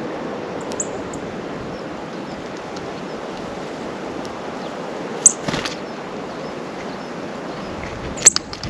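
Birds at a seed feeder: two sharp knocks, one about five seconds in and one near the end, and a few short high chips over a steady background hiss.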